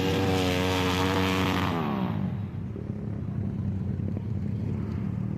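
Flat-track racing motorcycle engine at high revs passing close, its pitch falling as it goes by about two seconds in. A lower, steadier engine sound carries on after it.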